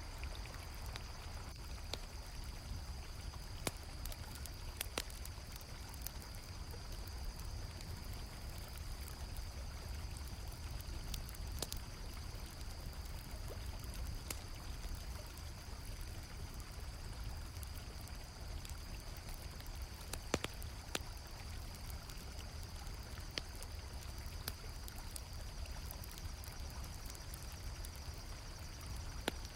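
Night river ambience: water flowing steadily under a constant high cricket chirring, with scattered sharp crackles and pops from a campfire at irregular intervals.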